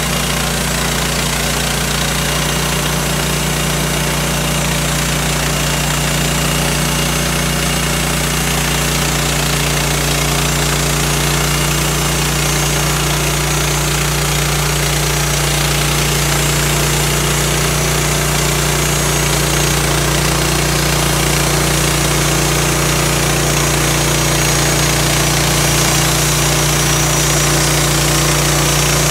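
Portable bandsaw sawmill's gas engine running steadily as the blade cuts through a long log, slowly getting a little louder.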